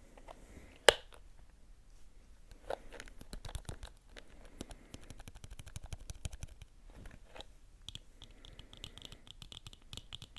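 Close-miked ASMR tapping and scratching: a dense run of quick light clicks and scratchy rubbing, with one sharp, louder tap about a second in.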